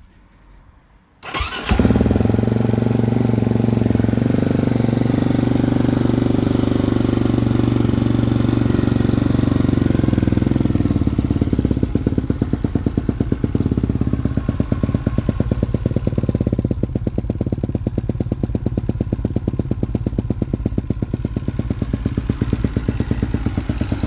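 2007 KTM EXC 250F's single-cylinder four-stroke engine starting from cold: it catches about a second in and runs at a fast idle, then about ten seconds later settles into a slower idle with distinct, even firing pulses.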